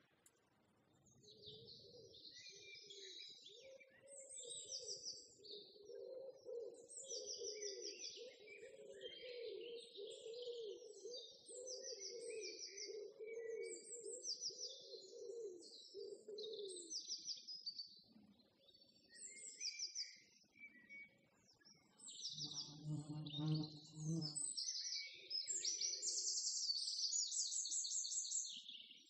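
Small birds chirping and twittering in short repeated phrases throughout, with a lower wavering sound under them through the first half and a brief low hum a little after the middle.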